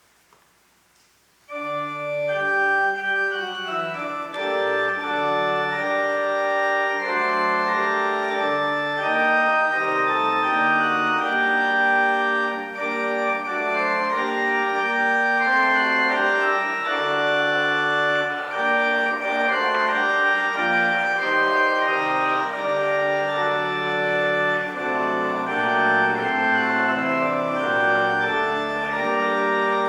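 Church organ playing a sustained instrumental piece with a moving bass line, starting suddenly about a second and a half in after a short near-silence.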